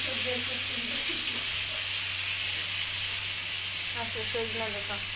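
Moringa drumstick pieces frying in oil in an iron karahi over a gas flame, a steady sizzle.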